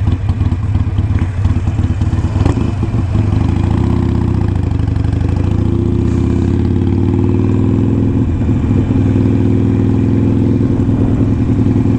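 Motorcycle engine running unevenly as the bike slows and pulls over, then idling steadily from about three seconds in.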